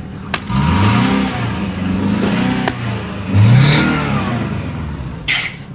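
A car engine is revved twice, each rev rising in pitch and then falling back, the second one louder. There is a short sharp knock near the end.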